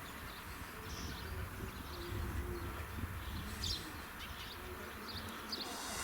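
Birds chirping in short scattered calls, with a dove cooing in a few low notes, over a steady low rumble of outdoor ambience.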